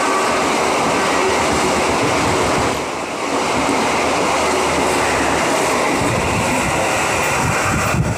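Passenger train coaches passing at speed close by: a loud, steady rush of wheels on the rails that drops away sharply near the end as the last coach clears.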